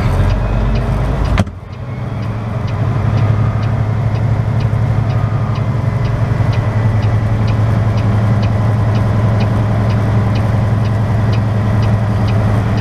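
Semi-truck diesel engine running steadily at low revs while reversing, with the hazard flashers ticking about twice a second. A sharp knock comes about a second and a half in; the engine dips briefly after it, then builds back to a steady hum.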